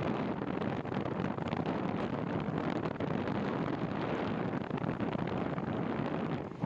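Wind buffeting the microphone of a moving bicycle rider, a steady rushing noise that dips briefly near the end.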